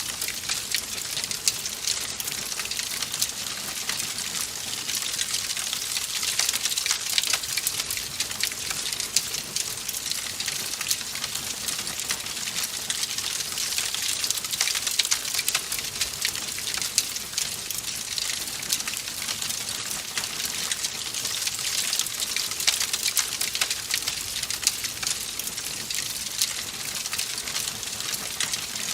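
Fire crackling in a fireplace: a steady hiss thick with many small, sharp pops and snaps.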